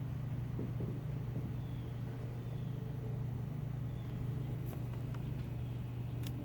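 A steady low hum, with two faint clicks near the end.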